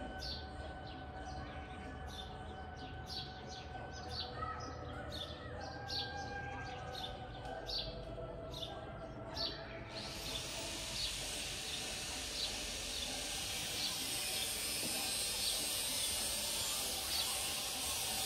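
Small birds chirping, short high calls about twice a second. About halfway through, a steady high hiss comes in suddenly and covers the upper range, with the chirps still faintly heard under it.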